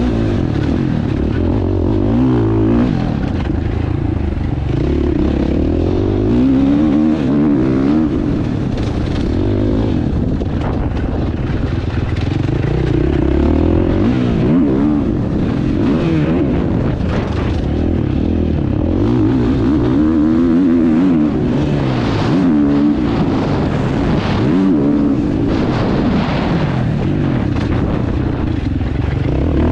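Husqvarna motocross bike engine, heard on board, revving hard and easing off over and over as it is ridden around a dirt track, its pitch rising and falling again and again.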